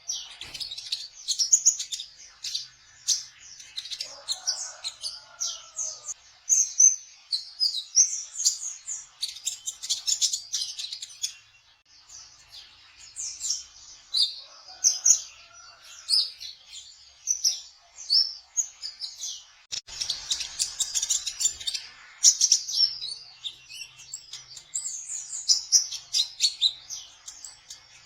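Kolibri ninja sunbird singing its 'trotol' song: a dense, rapid run of high, sharp chirps and trills with hardly a break, and a fainter, lower warble twice in the background.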